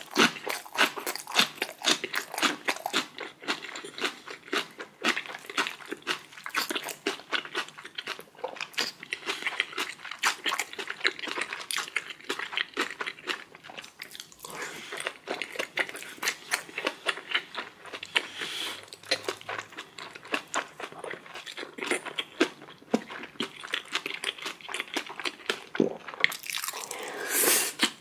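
Close-miked chewing and biting, with many small, irregular crunching and wet clicking sounds of a person eating.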